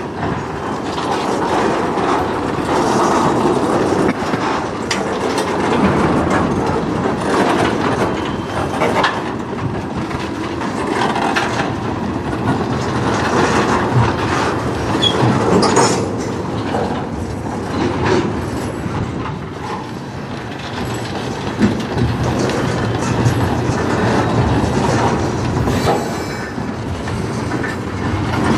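Freight train cars, tank cars and gondolas, rolling past on steel wheels: a steady rumble with repeated clacks as the wheels cross rail joints.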